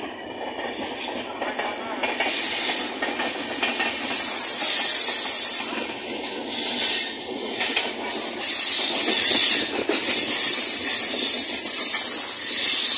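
Express passenger train running, heard from an open coach door: wheels on the rails and a loud hiss that builds up about four seconds in, with a thin high wheel squeal, while another train runs on the next track alongside.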